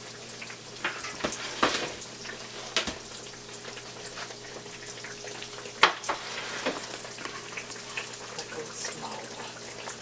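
Breaded eggplant slices frying in shallow oil in a skillet: a steady sizzle with scattered crackles, and a few sharp clicks standing out.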